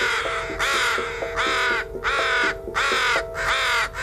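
A crow cawing over and over, harsh calls about two a second, with a faint steady tone underneath.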